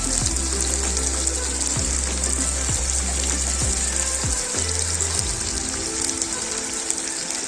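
Chicken and vegetables sizzling in hot oil in a kazan over a campfire, a steady hiss, with background music playing.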